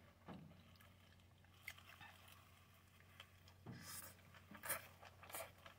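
Faint chewing of a soft tortilla wrap filled with chicken and slaw, heard as a few short, scattered mouth sounds with quiet between them.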